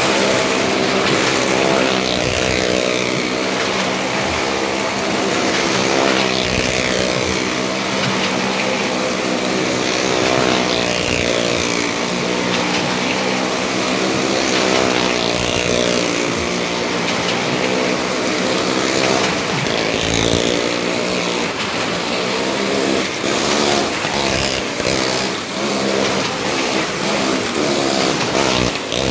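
Motorcycle engine running and being revved up and down repeatedly inside a wooden 'well of death' stunt drum.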